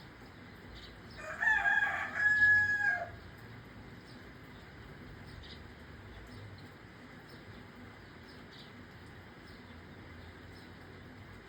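A rooster crows once, about two seconds long, ending on a held note, over the steady hiss of light rain.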